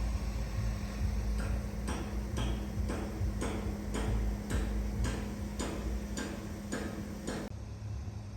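Construction-site hammering: a steady run of sharp knocks, about two a second for some six seconds, over a steady machine hum and low rumble.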